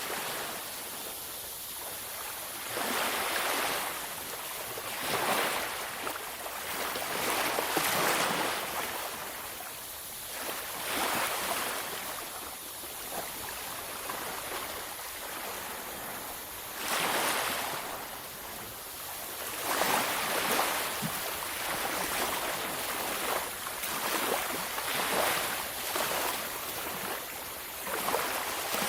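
Ocean waves breaking on a beach, surf washing in and out in repeated swells every few seconds.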